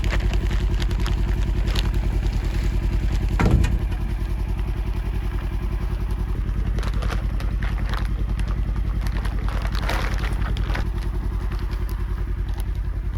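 Farm buggy engine running steadily, with a fast even pulse. A short falling cry sounds over it about three and a half seconds in.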